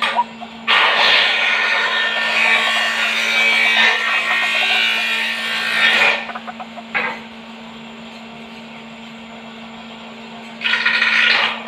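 White-breasted waterhen calling: a long, noisy bout of calls lasting about five seconds, a few short notes, a pause of some three seconds, then calling again near the end.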